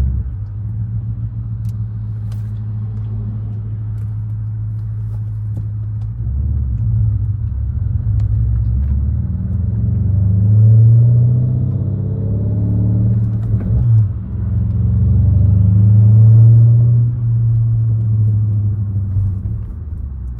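BMW 550i's twin-turbo V8, exhaust opened up with catless downpipes, an H-pipe and a muffler delete, droning steadily while driving. Its note then rises and swells as the car accelerates, breaks off briefly about two-thirds of the way in as a gear is changed, and pulls up again before easing off near the end.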